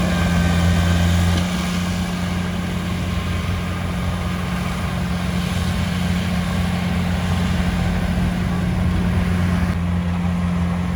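Heavy diesel engine of earthmoving machinery running steadily at constant speed, dropping slightly in level about a second and a half in.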